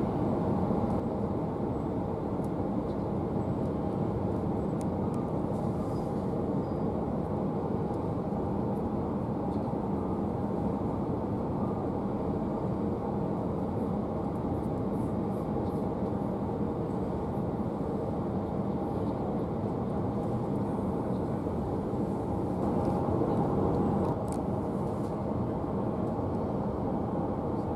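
Steady running noise of an electric passenger train in motion, heard from inside the carriage: wheels on rail and the carriage rumbling, swelling a little about 23 seconds in.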